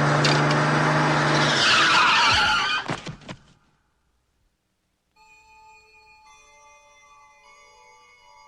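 A vehicle skidding with tyres screeching over a steady low engine hum, ending in a few sharp knocks about three seconds in; after a short silence, soft chiming music notes.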